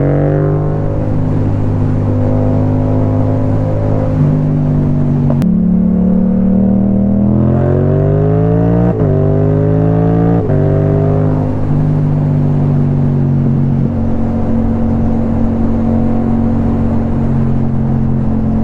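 Yamaha MT-07's parallel-twin engine through an Akrapovic Racing Line titanium exhaust while riding: it accelerates with the pitch climbing, shifts up twice with sudden drops in pitch about halfway through, then runs at a steady pitch.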